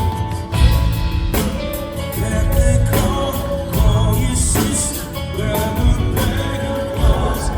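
Rock band playing live: drums and guitar with a sung lead vocal.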